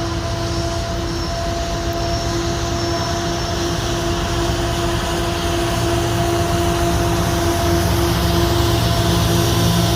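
CN freight train's diesel locomotives approaching, their engine rumble growing slowly louder, with a few steady tones above it.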